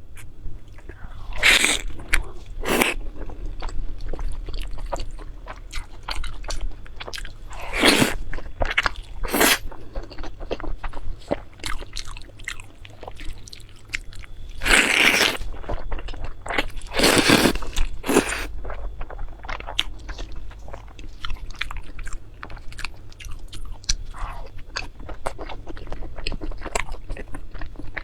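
Close-miked eating: a person biting into and crunching food, then chewing, with loud crunchy bites every few seconds between softer chewing.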